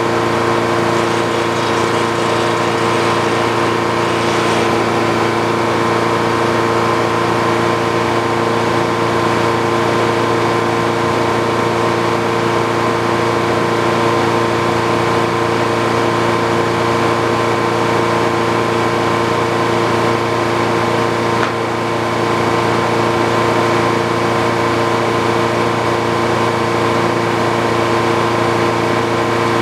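An old Frick sawmill running steadily, its power unit and spinning saw making a constant hum with several held tones.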